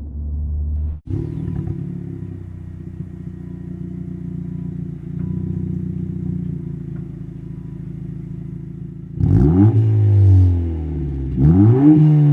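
Turbocharged four-cylinder of an 11th-gen Honda Civic Si / Integra idling through an aftermarket catback exhaust (MAPerformance), with a cut to a different exhaust recording about a second in. Near the end the engine is revved twice, each rev rising and then falling back.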